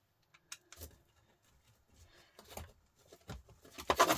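Scattered knocks and clicks of hand tools working on a Volvo truck starter motor held in a vice, as its screws are loosened: a few single taps in the first seconds and a louder cluster of knocks near the end.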